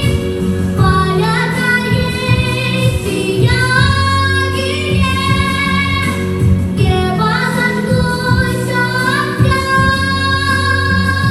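A song: a high female voice singing long held notes that slide up into each pitch, over a steady low accompaniment.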